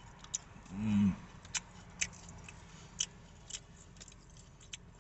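A few sharp, crisp crackles of crunchy fried food, spaced irregularly about half a second to a second apart, with a short hummed "mm" about a second in.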